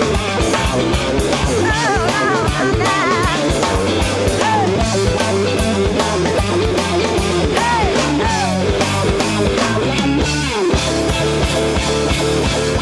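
Blues-rock band playing an instrumental shuffle: electric lead guitar soloing with string bends and vibrato over bass and drums, settling into a held chord near the end.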